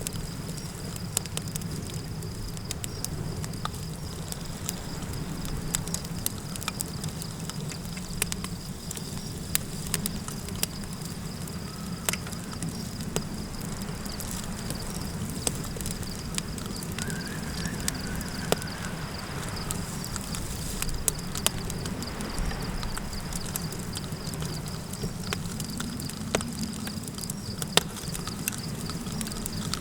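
Campfire crackling with frequent sharp, irregular pops over a steady low rumble of wind, with a continuous high insect trill like crickets. A faint, brief wavering call sounds about 17 seconds in.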